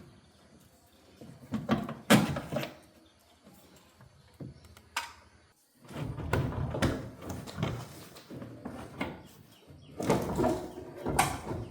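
Irregular clunks, knocks and scraping from hand work on a car being taken apart, with the loudest knocks about two seconds in and a busier stretch of clatter near the end.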